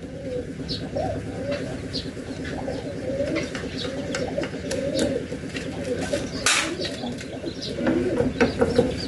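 Birds cooing over and over, with light metallic clicks as bolts are worked loose on a diesel engine's fuel pump by hand. A brief burst of noise comes about six and a half seconds in.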